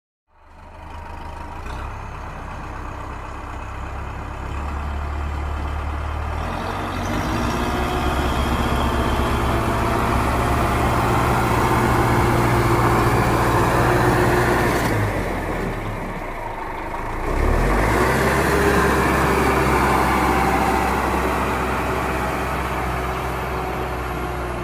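Tractor engine running steadily under load. It eases off for a couple of seconds about fifteen seconds in, then picks up again.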